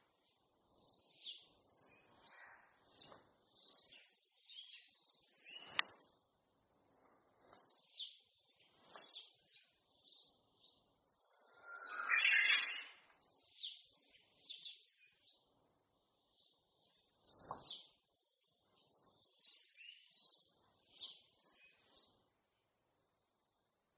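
Several wild songbirds singing and chirping, with short high calls and trills overlapping. One louder, fuller song comes about halfway, and the birdsong stops shortly before the end.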